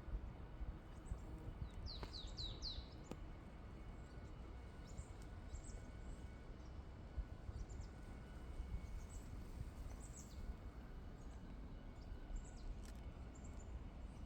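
Small songbirds chirping: a quick run of about five high, downward-sweeping chirps about two seconds in, then scattered short high calls, over a steady low rumble of background noise.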